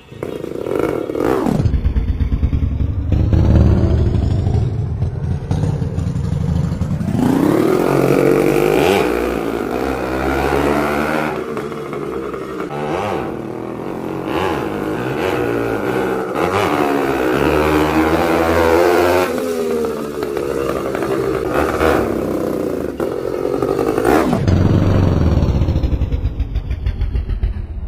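Two-stroke motorcycle engine running. It comes in loud about a second and a half in and runs low at first, then revs up and down with a rising and falling pitch from about seven seconds in, and drops back to a lower, steadier run near the end.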